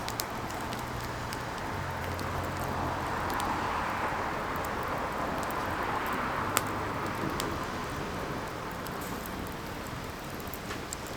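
Burning firewood: a steady hiss and rush of flames with scattered sharp crackles and pops, one loud pop about six and a half seconds in.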